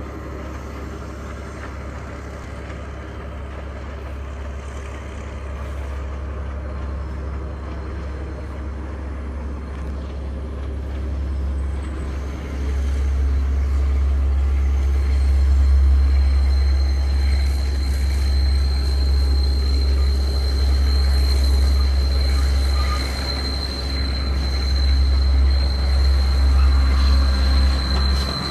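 Class S14 diesel train climbing a steep grade, its engine giving a steady low rumble that grows louder about halfway through. A steady high-pitched wheel squeal joins it as the train works round a tight curve.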